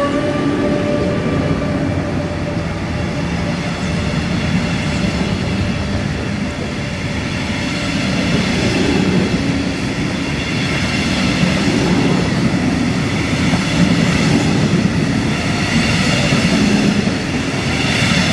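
Metronom double-deck passenger train rolling slowly past close by: a steady rumble of wheels on rail that swells and eases about every two and a half seconds as the cars go by. A pitched whine fades out in the first couple of seconds.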